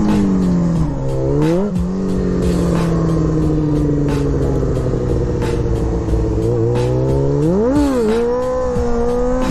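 Motorcycle engine running, its pitch sagging slowly as the revs drop. Sharp throttle blips come about two seconds in and again near the end.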